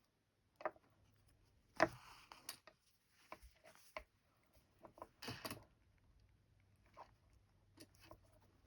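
Close, quiet sounds of hand embroidery: scattered sharp clicks and brief scratchy rustles of needle, thread and cloth being worked, the loudest click about two seconds in.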